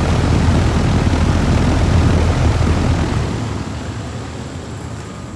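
Carrier heat pump outdoor unit running, its condenser fan pushing air with a low rushing rumble, louder for the first three seconds and then easing off.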